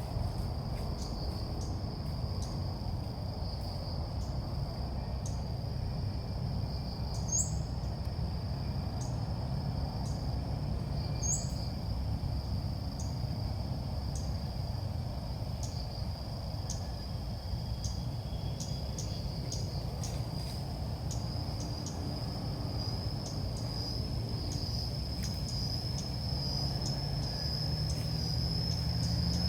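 A steady high-pitched insect drone with short, high bird chirps every second or two, over a low rumble of background noise.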